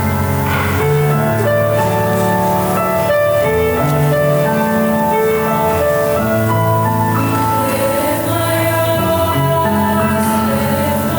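Live student ensemble performing holiday music, with long held notes moving in chords.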